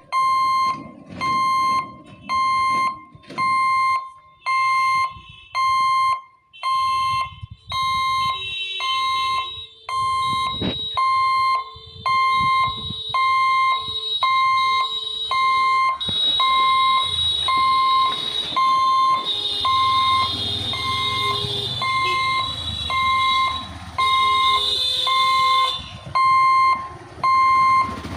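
Railway level-crossing warning alarm beeping steadily at about one pulse a second while the gate is down. A low rumble and hiss join in during the middle stretch.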